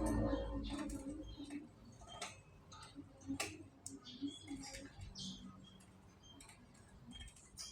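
Canaries in a cage making scattered sharp clicks and ticks, with a few short high chirps among them.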